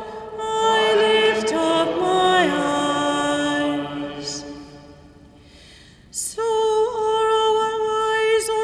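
Sung responsorial psalm music, a melody of held notes moving in steps. It dies away about five seconds in, and a new held phrase begins about a second later.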